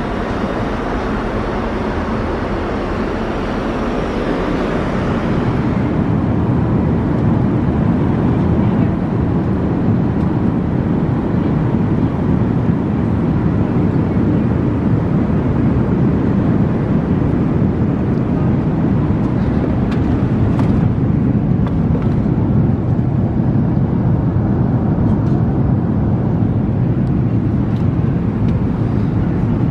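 Steady in-flight cabin noise of an Airbus A380 airliner: the constant rush of air and engine noise heard inside the cabin. Its tone changes about five seconds in, and a few faint clicks come around twenty seconds in.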